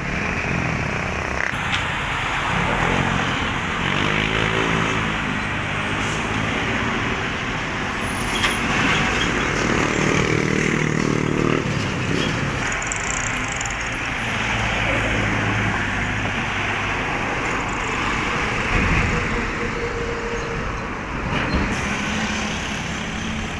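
Highway traffic: trucks and other vehicles passing in a steady stream of engine and tyre noise, with the engine drone of heavy vehicles rising and fading several times.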